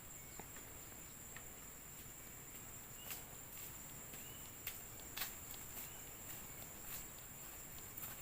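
Faint steady high-pitched insect chorus, with a few soft scattered clicks.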